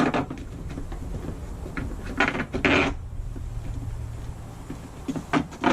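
Scattered clicks and knocks of hardware being handled while a ceiling fan is fitted, with two short scraping bursts in the middle.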